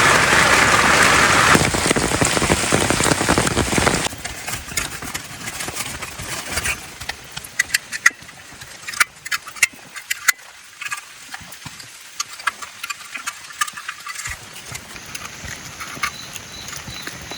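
Steady heavy rain for about four seconds, then it cuts off suddenly, leaving a quieter background with scattered sharp ticks and knocks.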